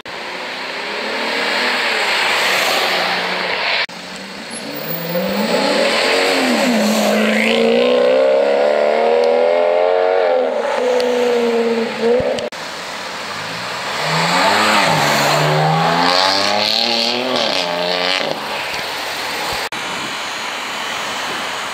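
Sports car engines accelerating hard, the pitch climbing and dropping back at gear changes, twice at length, with tyre and traffic noise between the cuts.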